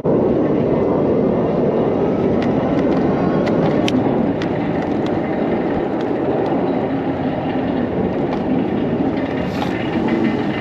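Steady rushing wind noise on a chest-mounted action-camera microphone while riding an e-bike, with a few faint light ticks.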